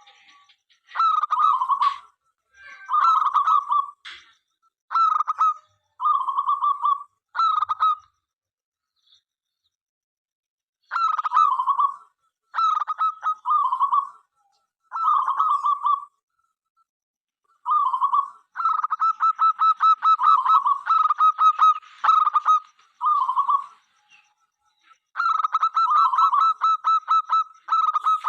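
Zebra dove (perkutut) cooing: repeated phrases of quick pulsed coos about a second long, a pause of about three seconds, then longer runs of rapid notes in the second half.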